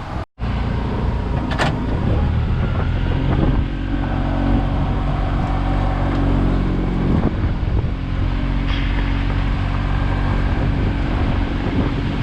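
A vehicle engine running steadily under loud, gusting wind noise on the microphone. The sound cuts out completely for a moment just after the start.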